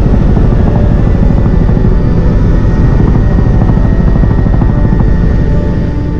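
Helicopter heard close up, its rotor beating rapidly over the engine noise; it fades out near the end.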